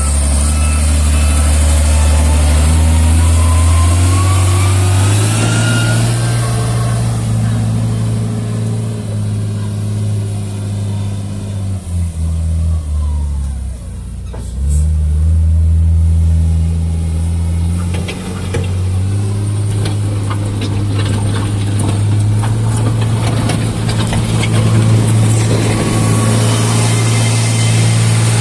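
Diesel engine of heavy earthmoving machinery working under varying load, its revs stepping up and down several times and dropping briefly about halfway through. A faint rising whine runs over it in the first few seconds.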